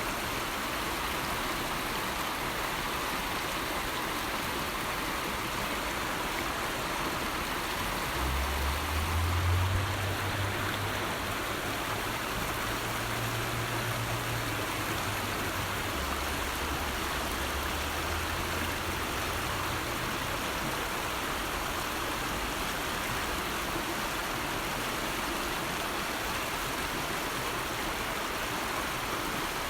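River water rushing steadily. A low rumble sits underneath it from about eight seconds in until about twenty seconds.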